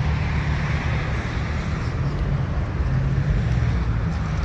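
A car engine running steadily at low revs, a deep even drone with no rise or fall in pitch.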